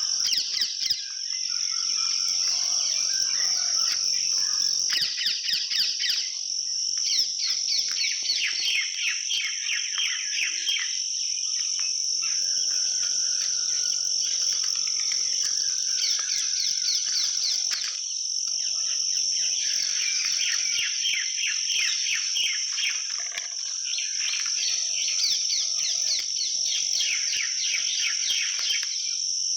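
A steady, high-pitched insect drone with many small birds chirping over it in quick falling notes that come and go in clusters.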